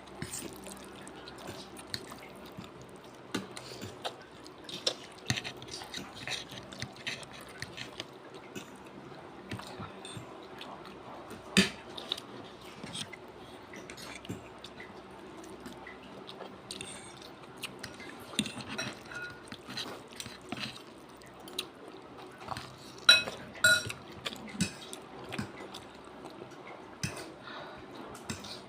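Eating noodles from a plate: a spoon and fork clink and scrape against the dish, with wet chewing. A few sharper clinks stand out, one about twelve seconds in and two close together near the twenty-third second.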